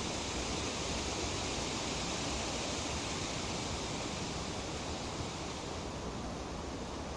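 Wind rustling through tree leaves: a steady, even rushing hiss that eases slightly about six seconds in.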